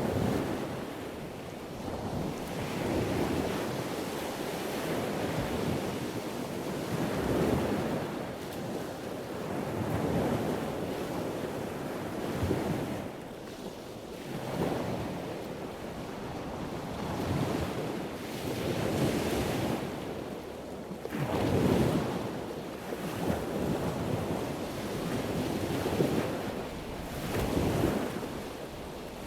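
Ocean waves washing in repeated surges every two to three seconds, with a steady rushing like wind between them.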